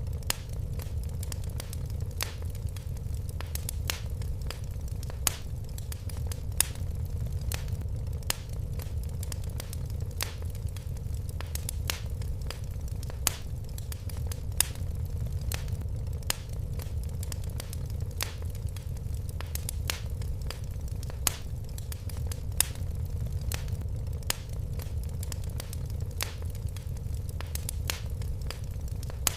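Wood fire crackling and popping in a fireplace over a steady low rumble of the flames, with irregular sharp snaps, a few louder than the rest.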